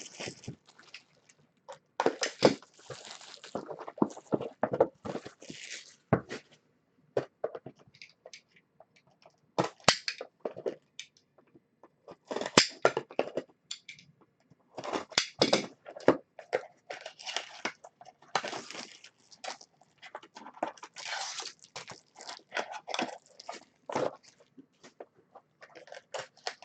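Trading-card packaging being opened and handled: irregular crinkling, crackling and clicks of wrappers and cardboard, in short bursts with brief pauses between them.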